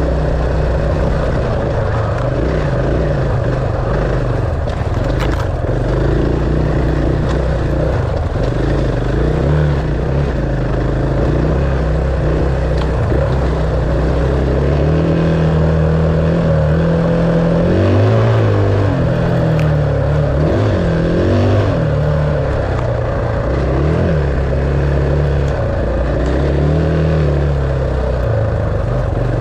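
Enduro dirt bike engine running under way, its pitch rising and falling as the throttle is worked, most noticeably in the middle stretch.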